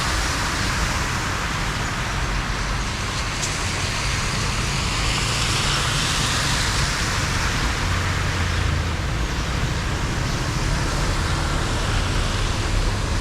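Steady rush of water flowing into a street drain, with a low rumble underneath.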